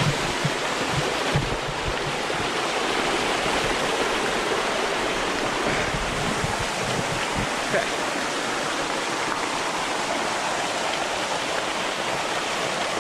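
Waterfall and stream water rushing steadily. A few brief low thumps in the first half, wind or handling on the microphone.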